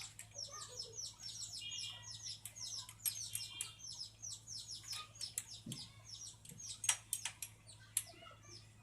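Small birds chirping continuously, a rapid run of short falling chirps, with a few sharp clicks scattered among them, the loudest about seven seconds in.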